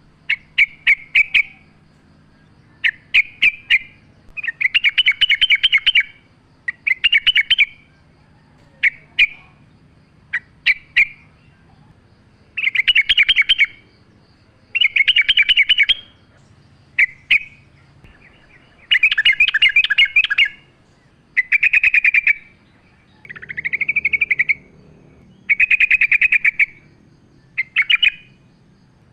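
Yellow-vented bulbul (trucukan) in full song: short chattering phrases of rapid notes, repeated every one to two seconds.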